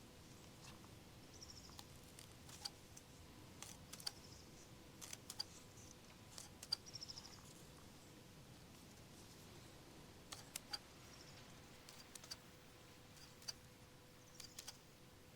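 Herbs being picked by hand: faint, scattered small snaps and clicks at irregular intervals, with a few short high chirps and a faint steady hum underneath.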